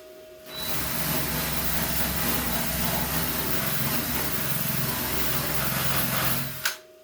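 MIG welder laying a continuous bead on thin sheet-metal truck-bed panels: a steady crackling buzz that starts about half a second in, runs for about six seconds and stops with a click near the end.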